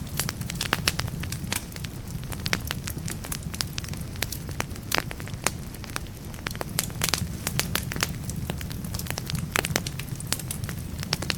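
Wood fire burning in a fireplace, with irregular sharp crackles and pops from the burning logs over a steady low rumble of flame.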